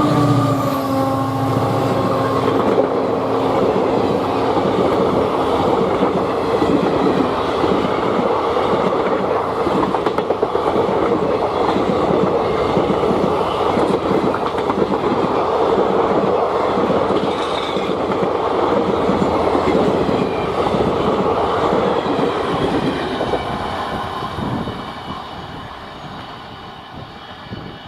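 Passenger coaches of a long train rolling past, their wheels clattering in a fast rhythm over the rail joints. The WDG-4 diesel locomotive's engine hum dies away in the first couple of seconds, and the clatter fades near the end as the last coaches go by.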